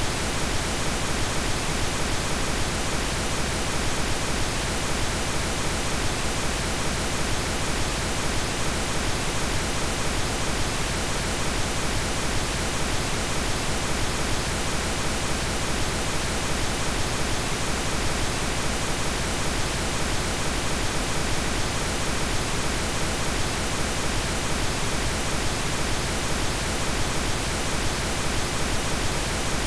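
Steady synthetic pink noise: an even, unchanging hiss spread across the whole range, with no tones or breaks.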